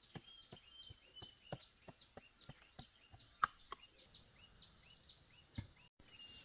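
Faint repeated bird chirps, short high notes about once or twice a second, with scattered light clicks and knocks; the sharpest knock comes about three and a half seconds in.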